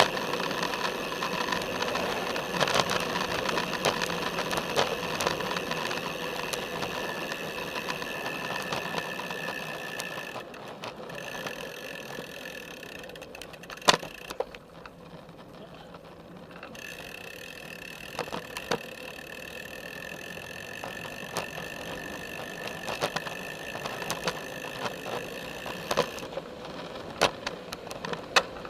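Road bike rolling along a paved path, heard from a camera strapped to its top tube: steady tyre and drivetrain noise with frequent rattling clicks and knocks from the frame and mount over bumps, one sharp knock about halfway through.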